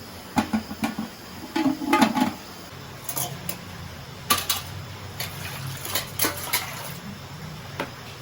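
Kitchen clatter: pots, dishes and metal utensils knocking and clinking in a string of sharp hits, some ringing briefly. A low steady hum comes in about three seconds in.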